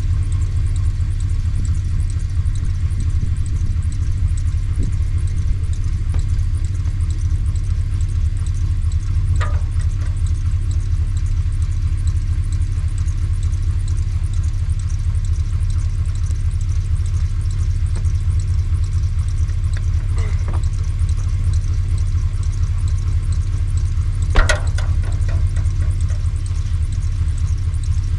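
Mud buggy's engine running steadily at low revs, a deep, even rumble with no revving. A few brief sharp knocks or clanks break in, the loudest about 24 seconds in.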